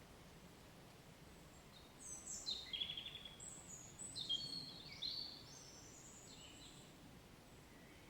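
A songbird singing one rapid, varied phrase of high chirping notes, starting about two seconds in and lasting about three and a half seconds, over a faint steady low background noise.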